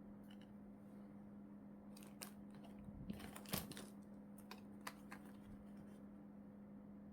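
Plastic packaging being handled: a few faint crinkles and crackles from about two to five seconds in, loudest near the middle, over a low steady hum.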